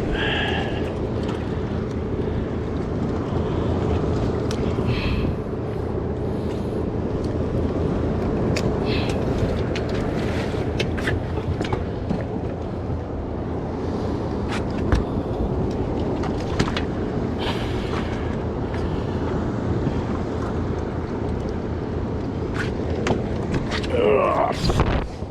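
Steady rumble of a small fishing boat's engine with water and wind noise, broken by scattered knocks and clicks of handling on deck. A short gliding call comes near the end.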